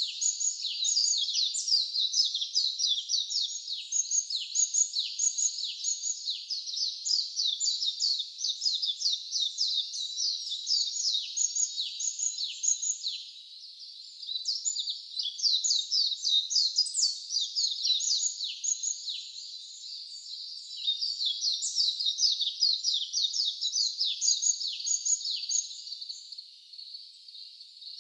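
Songbirds chirping in a continuous chorus of quick, high, downward-sliding notes, easing off briefly a few times.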